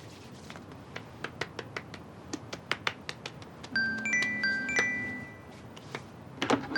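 Light, quick clicks throughout, with a short melody of bell-like chime notes joining about halfway through and starting again near the end.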